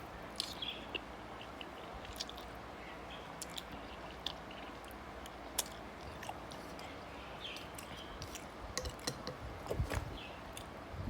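A person eating a bowl of noodles: chewing, with many scattered small clicks and a cluster of soft thuds near the end.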